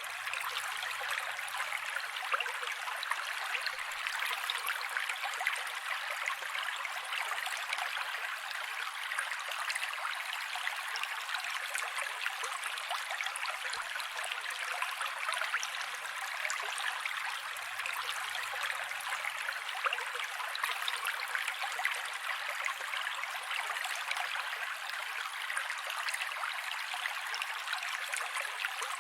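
Mountain creek water running steadily over rocks: an even rushing hiss with no low rumble and no change throughout.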